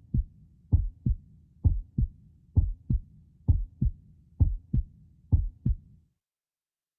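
Heartbeat sound effect: a steady lub-dub of low paired thumps, about seven double beats a little under a second apart, stopping about six seconds in.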